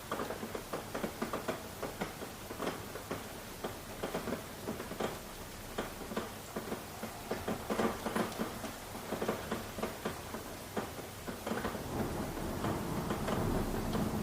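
Rain falling, with many distinct drops tapping on a hard surface over a steady patter. Near the end a low rumble swells in, like distant thunder starting.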